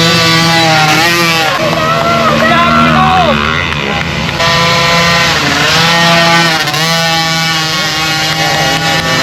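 Dirt bike engines revving up and down, more than one at a time, over a steadier engine note underneath.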